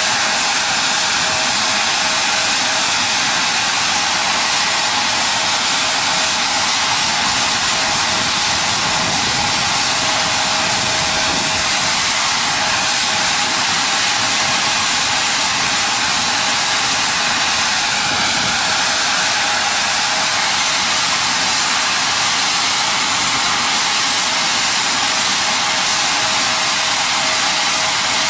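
Steady, loud rushing hiss of machinery with a faint steady tone underneath, unchanging throughout.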